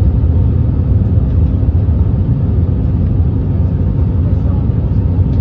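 Steady low rumble of cabin noise inside an Airbus A321neo, from its CFM LEAP-1A engines and the airflow, heard from a window seat.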